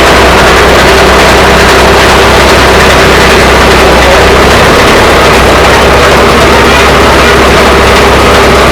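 Heavy truck engine running steadily, a loud even drone.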